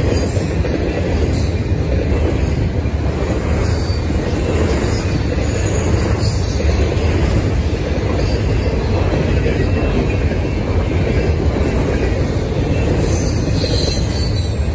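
Double-stack intermodal freight cars rolling past close by: a steady, loud rumble and rattle of steel wheels on the rails.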